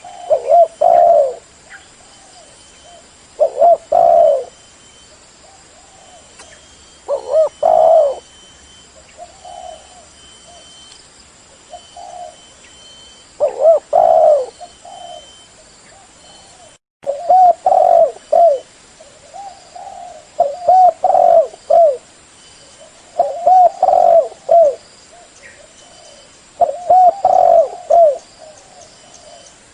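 Spotted dove cooing loudly, its several-note coo phrases repeated every three to four seconds: a bird calling persistently, the kind of call used to lure other doves.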